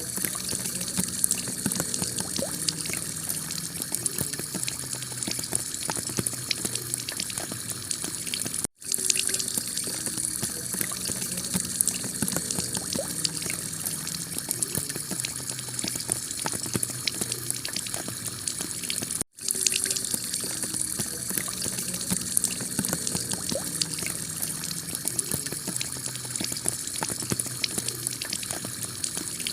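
Heavy rain pelting a clay-tile roof: a dense steady hiss thick with small taps of individual drops. It cuts out for an instant twice, about 9 and 19 seconds in.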